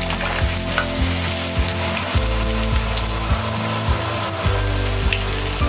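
Breadcrumb-coated bread pakora deep-frying in hot oil in a steel pan: a steady sizzle with many small crackling pops. Beneath it run low steady tones that change pitch every second or so.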